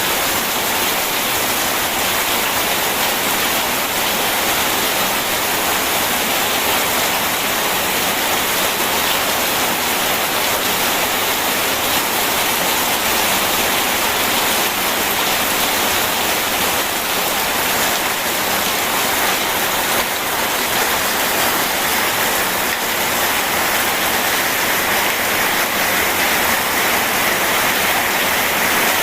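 Steady rain mixed with rushing river water, an even, unbroken hiss.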